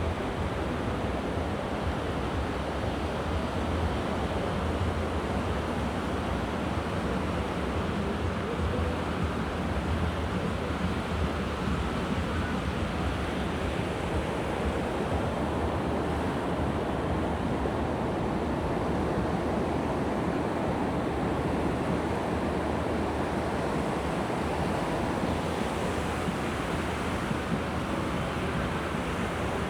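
Sea waves breaking and washing up the beach in a steady rush, with wind rumbling on the microphone.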